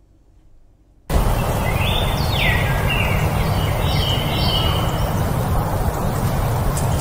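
Near silence for about a second, then an outdoor woodland ambience comes in suddenly: a steady background hiss with birds calling in a run of short whistled chirps about two to four seconds in.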